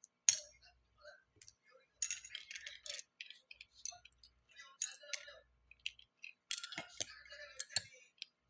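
Plastic Lego bricks clicking and rattling as pieces are handled and snapped together, in two busier clusters of sharp clicks.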